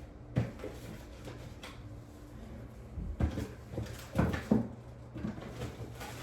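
Things being handled and set down while clearing out a refrigerator: scattered knocks and clatter, most of them bunched together a few seconds in, over a steady low hum.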